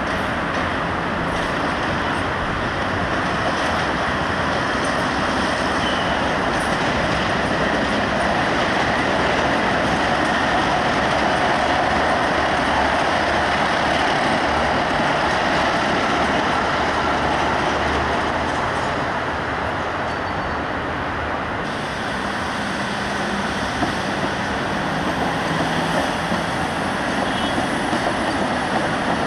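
Train on the move: a loud, steady running noise that swells slightly in the middle and changes abruptly about three-quarters of the way through.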